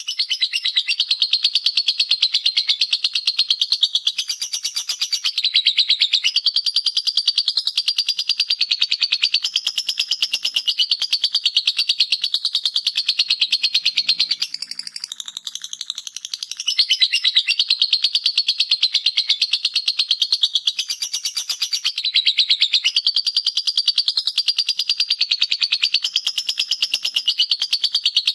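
Lovebird singing its 'ngekek' song: a long, unbroken, rapid high-pitched chattering trill that softens for a couple of seconds about halfway through, then returns at full strength.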